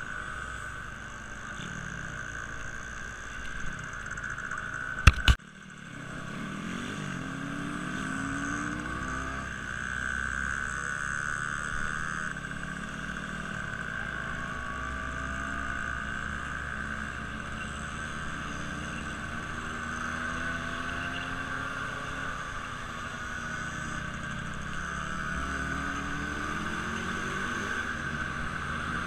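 A vehicle engine running steadily with a high whine, its lower tones slowly rising and falling. Two sharp clicks come about five seconds in, and the sound dips briefly after them.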